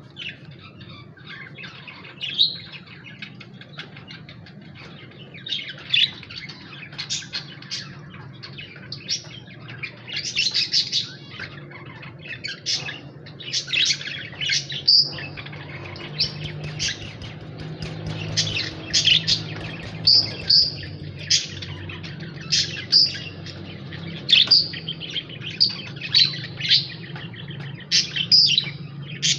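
Lovebirds chirping: many short, shrill chirps, coming more often in the second half, over a steady low hum.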